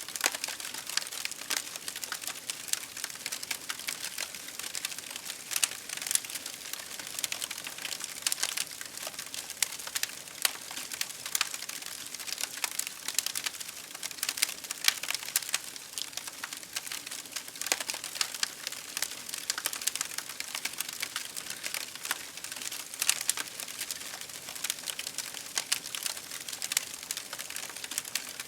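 Wood fire crackling steadily with dense, irregular small snaps and pops, over a constant hiss of rain.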